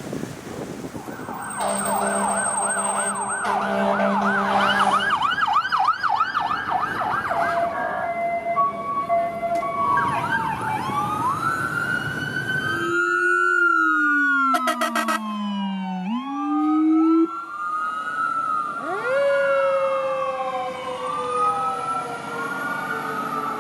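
Fire truck sirens sounding: first a fast warbling yelp, then several overlapping wails sweeping up and down in pitch.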